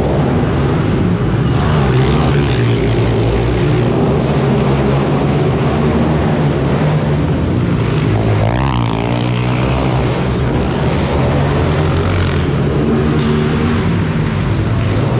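Several minibike engines running and revving together, their pitches rising and falling, with one sweeping up and back down a little past the middle.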